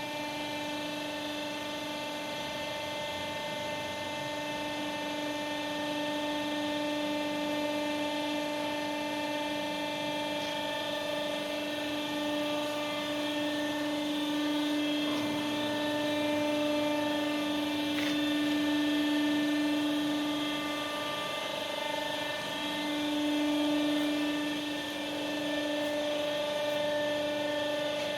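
Horizontal baling press running: a steady machine hum with a high whine, dipping briefly about three quarters of the way through.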